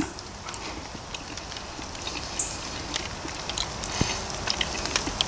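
A man chewing a mouthful of sausage and peppers: soft, irregular mouth clicks over a steady background hiss, with a brief high chirp about two and a half seconds in.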